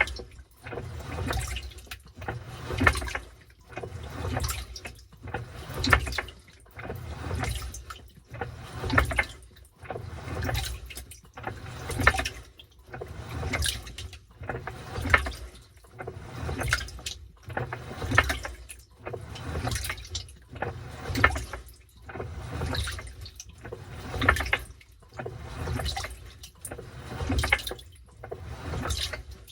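Washing machine washing a load: water sloshing and swishing in an even rhythm, a surge about every second and a half as the wash reverses direction, over a low rumble.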